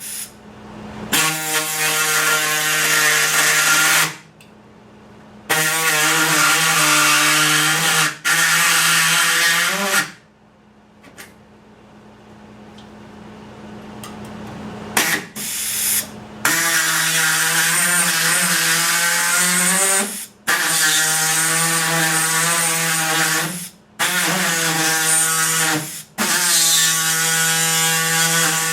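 An electric power tool's motor running at a steady pitch in repeated runs of a few seconds, with brief stops between them.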